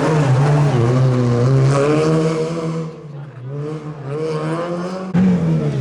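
Rally car engine running hard at high revs, its pitch rising and falling through gear changes. About halfway through the driver lifts off and the sound drops, then it builds again under throttle. Near the end there is a sudden jump to a louder engine note.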